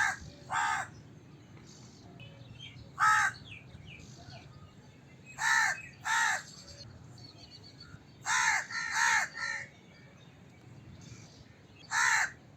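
Crow cawing: about nine short, harsh caws, given singly and in quick runs of two or three with pauses of a couple of seconds between runs.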